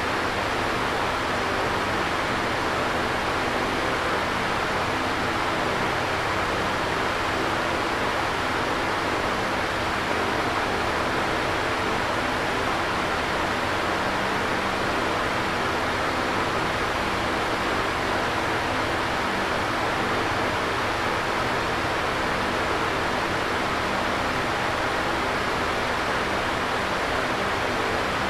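Electric fan running steadily: an even whooshing air noise with a faint low motor hum underneath.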